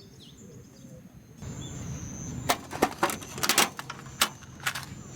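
A quick, irregular run of sharp cracks and clicks starting about halfway through, a dozen or so in two and a half seconds, over a faint steady high tone.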